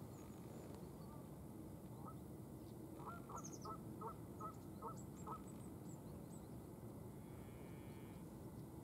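A bird calling: a quick series of about eight short, falling calls about a third of a second apart, starting about three seconds in and lasting two and a half seconds. Faint high chirps of small birds sound over a steady low outdoor background.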